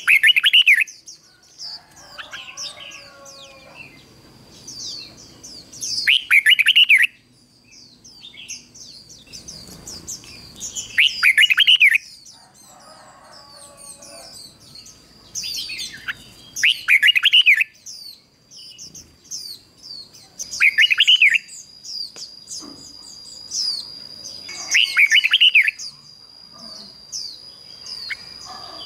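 Red-whiskered bulbul singing: a loud, short warbled phrase about every four to five seconds, with quieter high chirps in between. A thin, steady high tone sets in about two-thirds of the way through.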